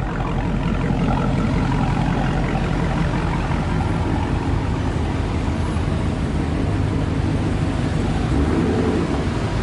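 A car's engine and exhaust running loud and steady while driving, with road noise.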